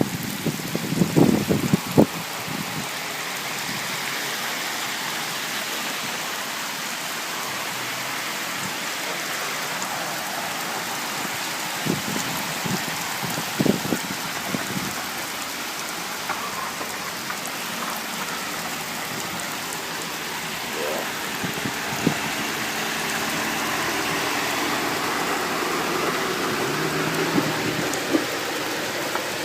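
Heavy rain and hail pouring down in a thunderstorm: a steady hiss, with a few sharp knocks of hailstones striking in the first couple of seconds and again about twelve to fourteen seconds in.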